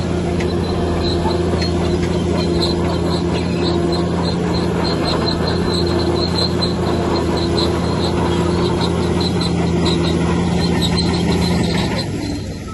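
Heavy diesel earthmoving machine running steadily under load, with a light high-pitched squeak repeating about two to three times a second. Near the end the engine note dips briefly and then picks up again.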